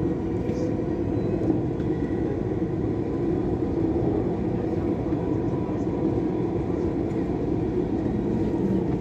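Dubai Metro train running between stations, heard from inside the carriage: a steady low rumble with a faint even whine.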